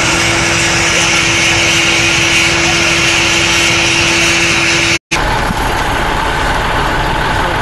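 A steady engine hum, with a split-second dropout about five seconds in, after which the hum carries on at a different pitch.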